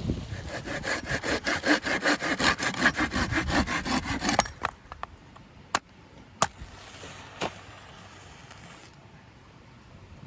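A saw cutting wood in rapid back-and-forth strokes, about five a second, stopping after about four seconds. Three sharp clicks or knocks follow.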